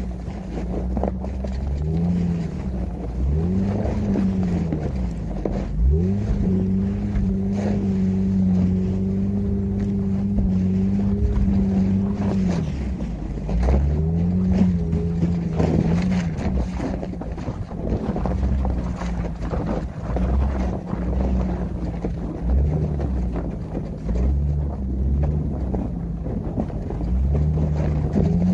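Infiniti FX35's V6 engine revving up and down as the car drives through snow, its pitch climbing and dropping several times and held steady at higher revs for about six seconds in the middle, with wind noise on the microphone.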